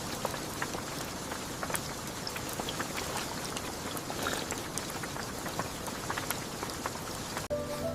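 Steady rain with many sharp drop ticks. It cuts off suddenly shortly before the end, where soft music comes in.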